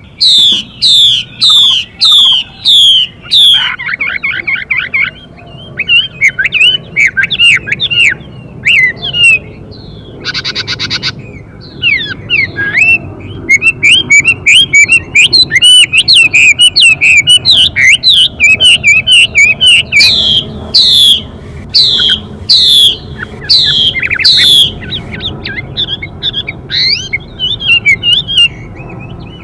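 Caged Chinese hwamei song: loud, varied phrases of fast falling whistles and rapid chirps that run on without pause. A short harsh, buzzy call about ten seconds in fits the female hwamei's hissing call that goes with the male's song.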